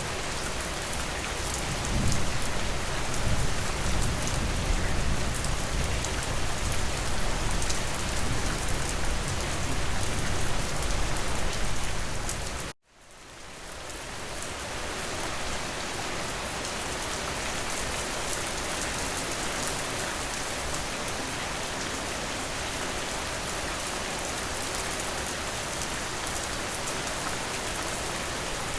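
Steady rain falling on a surface, with a low rumble underneath for the first dozen seconds. About thirteen seconds in, the sound cuts out abruptly and then fades back in to steady rain.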